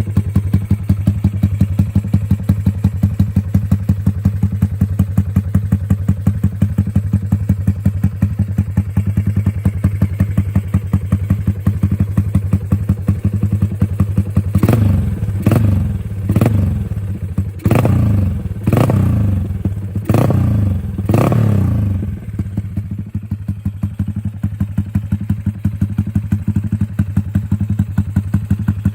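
Yamaha 135LC single-cylinder four-stroke engine idling through an aftermarket AHM M3 SPR exhaust with a short silencer, a steady even pulsing. About halfway through it is revved in seven quick throttle blips, each dropping straight back, then settles to idle again.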